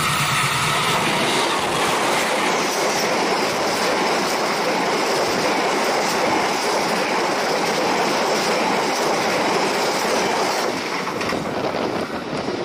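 A diesel-hauled passenger train passing close at speed: the locomotive, then a long string of coaches rushing by with a steady rumble and clatter of wheels on the rails. From about two seconds in there is a high, steady whine over it. The noise eases near the end as the last coach goes by.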